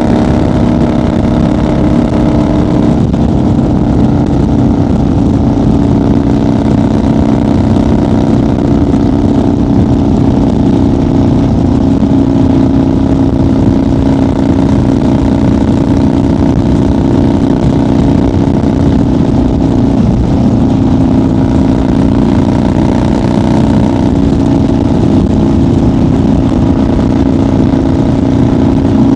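1990 Harley-Davidson FXR's Evolution V-twin running steadily at highway cruising speed, its engine note dropping slightly about three seconds in.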